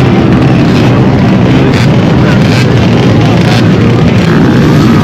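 Several dirt bike engines running at once, a loud steady drone with faint wavering revs.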